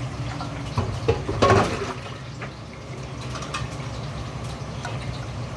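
Water running and splashing, loudest for a moment about a second and a half in, with scattered light clicks over a steady low hum.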